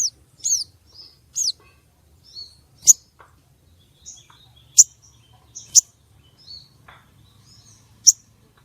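Female sogon bird calling: sharp, very high chirps at uneven intervals about a second apart, the first few as quick curved downward-sweeping notes. Played as a lure call to excite male sogon birds.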